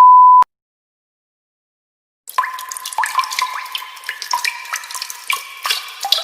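A censor beep, one steady high tone, cuts off suddenly about half a second in. After about two seconds of silence, water drips fall into water in a quick, busy stream of plinking drops.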